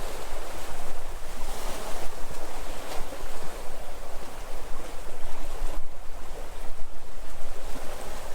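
Sea surf washing onto the shore in continuous noisy swells, one building about two seconds in, over a steady low rumble.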